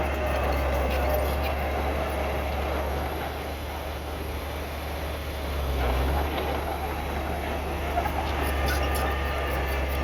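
Heavy earthmoving machine's diesel engine running with a deep, steady rumble, with some metallic squeaking and clanking. The engine note eases off about three seconds in and builds again around six seconds, with a sharp clank near eight seconds.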